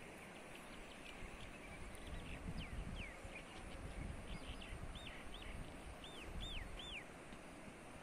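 A bird calling: a run of short, clear arching notes that rise and fall, repeated several times between about two and seven seconds in, over a low steady outdoor rumble.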